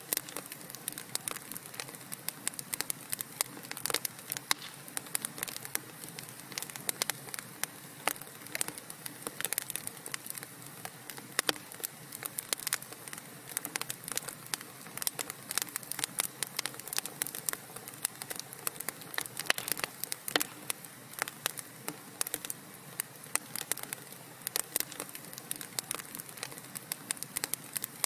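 Wood fire burning in a fireplace: a steady hiss with continual irregular crackles and sharp pops.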